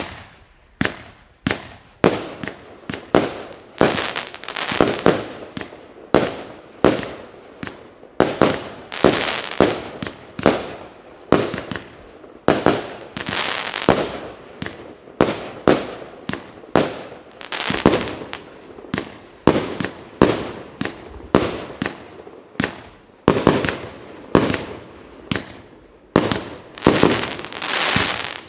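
46-shot consumer firework battery (0.8, 1.2 and 1.5 inch shots) firing in quick succession: sharp bangs roughly two a second, each with a short noisy tail.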